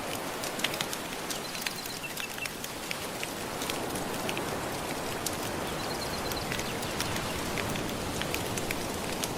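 Crackling wood fire, its irregular sharp pops and snaps scattered over a steady hiss of gentle ocean waves.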